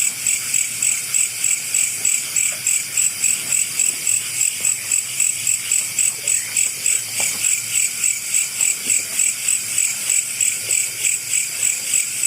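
Night insects chirping in a steady, even rhythm of about four pulses a second.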